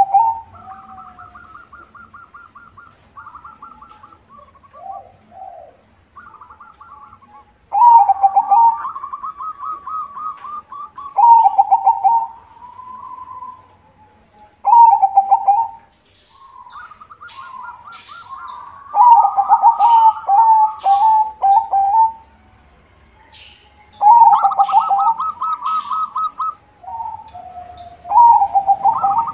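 White zebra dove (perkutut) cooing: loud phrases of quick stuttering notes, repeated every few seconds, with fainter cooing between them.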